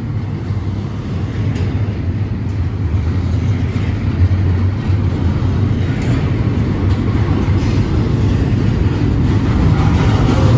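Double-stack intermodal well cars of a CSX freight train rolling past close by: a steady low rumble of steel wheels on rail with a few faint clicks, growing a little louder toward the end.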